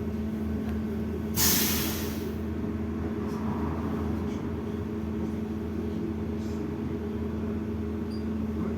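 Steady hum of a BKM 32102 trolleybus heard from inside the cabin, with one short, loud hiss of compressed air from its pneumatic system about a second and a half in.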